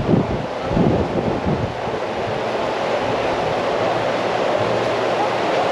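Strong wind buffeting the microphone, with heavy low gusts in the first two seconds, over a steady rush of surf breaking on the beach.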